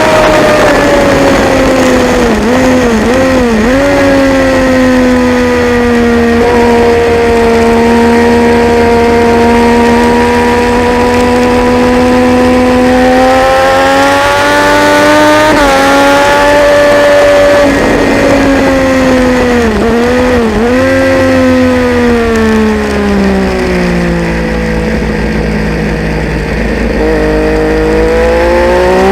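Triumph Daytona 675's inline-three engine running hard at high revs, its pitch rising and falling slowly through the lap. The revs dip sharply and briefly several times, near the start, around the middle and again a little later, at gear changes.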